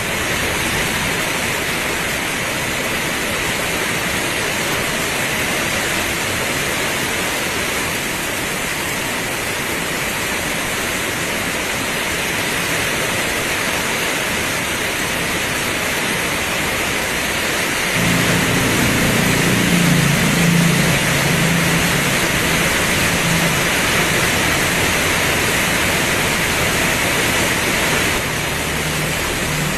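Heavy rain pouring in a steady, dense hiss. About two-thirds of the way through a low rumble joins it and lasts roughly ten seconds.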